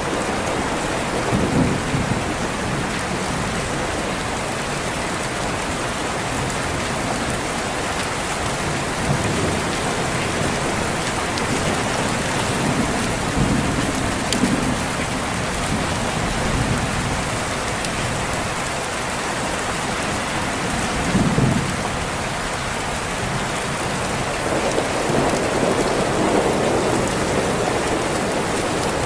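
Steady heavy rain with distant thunder rumbling low several times.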